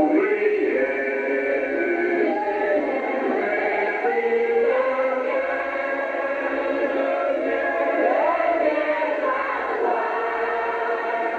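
A group of people singing a hymn together without accompaniment, many voices overlapping.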